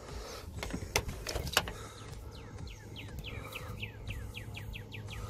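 A small bird chirping a quick run of short, falling notes in the second half, over a low steady hum. Two sharp clicks come about a second in and again shortly after.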